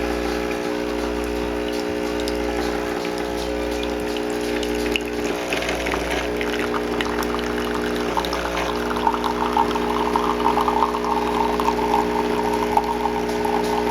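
Jura Capresso Ena 3 bean-to-cup coffee machine brewing: its pump hums steadily while coffee streams and splashes into the cup, the pouring growing louder about halfway through.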